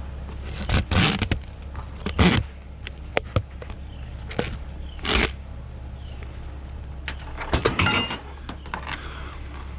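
Metal parts clanking and rattling in short bursts as an appliance is taken apart for scrap, over a steady low hum.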